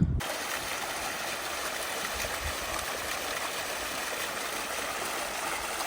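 Waterfall: falling water splashing in a steady, even rush.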